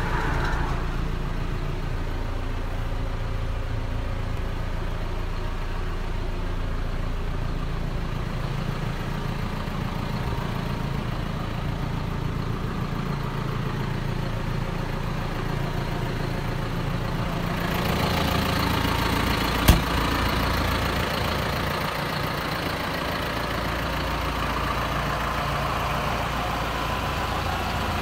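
John Deere 6330 tractor's diesel engine idling steadily. About eighteen seconds in the sound grows brighter and a little louder, and a single sharp click comes shortly after.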